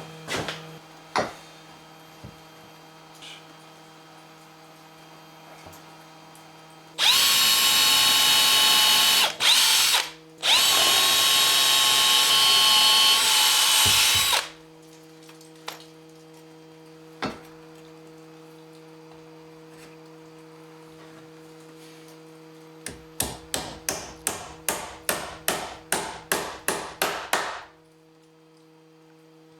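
Electric drill boring pilot holes in wood for hinge nails, running with a steady whine in a long burst, a brief one and another long burst over about seven seconds. Later comes a quick run of about twenty sharp hammer blows, roughly four a second, driving nails.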